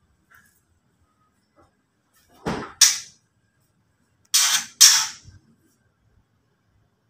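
White-rumped shama (murai batu) giving its harsh rattling 'ketrek' call, the scolding call used to provoke rival birds: two pairs of short, rasping bursts about a second and a half apart.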